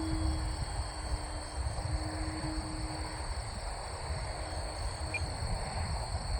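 Outdoor field sound of wind rumbling on the microphone and a steady high insect buzz. A faint steady hum from the distant electric model airplane in flight fades away about three seconds in.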